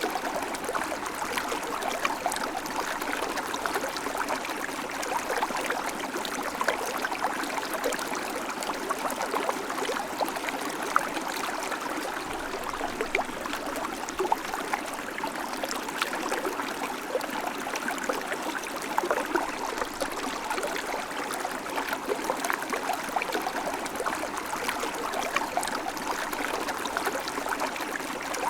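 River water flowing steadily over stones, a constant rushing with many small splashes and bubbling.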